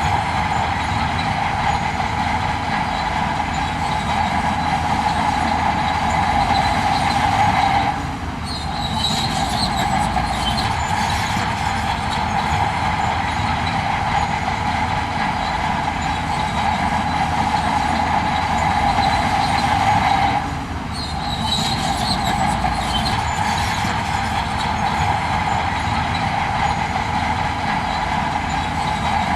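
Heavy earthmoving machinery running steadily under load: a continuous low rumble with a strong steady whine on top. It eases off briefly twice, about 8 seconds and 20 seconds in.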